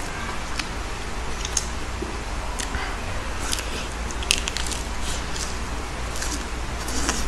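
Biting and chewing crisp lettuce leaves: scattered wet crunches, the sharpest about four seconds in, over a steady background hiss.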